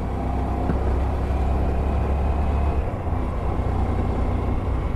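Honda Varadero 125's small V-twin engine running on the move, under a steady low wind rumble on the microphone.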